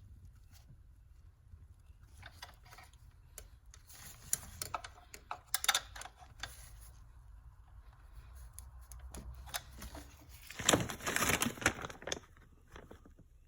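Hand work on a car engine: small metal parts and hand tools clicking, clinking and rubbing in scattered single sounds, with a louder stretch of rattling and scraping about eleven seconds in.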